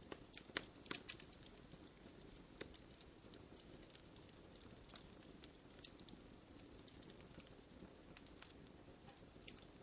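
Faint campfire crackling: irregular sharp pops and snaps over a low steady hiss, a little busier in the first second or so.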